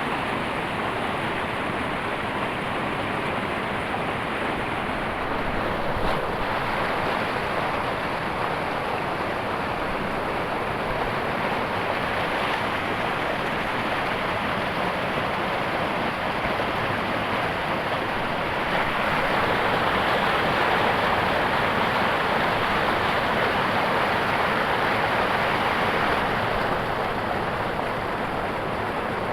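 Water rushing over a river waterfall: a steady noise with no breaks, growing somewhat louder for about seven seconds past the middle.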